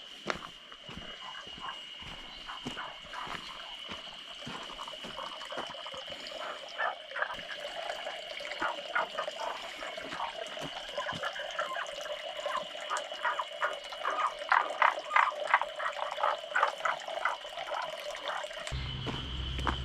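Streamside outdoor ambience: a steady high-pitched insect drone over a rush of water, with rapid croaking or clicking animal calls that grow louder and denser through the second half.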